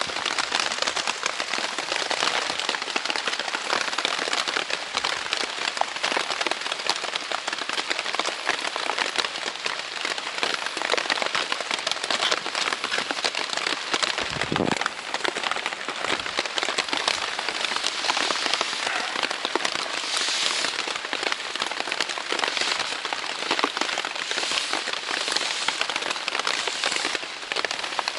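Heavy rain drumming steadily on the Dyneema fabric of a Zpacks Plexamid tent, a dense crackle of countless drops. There is a brief low thud about halfway through.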